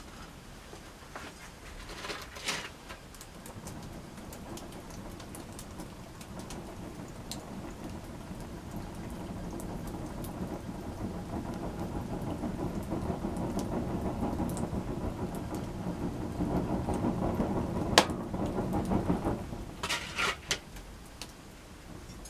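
Campfire burning, with sharp crackles and pops from the wood. A rushing noise swells through the middle and falls away near the end, the loudest pop coming just before it fades.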